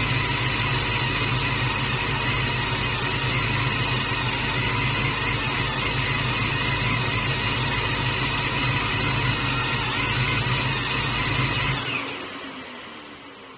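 Oldsmobile Cutlass's swapped LS V8 idling steadily, heard up close from the open engine bay. About twelve seconds in it shuts off, and the sound dies away over the next two seconds.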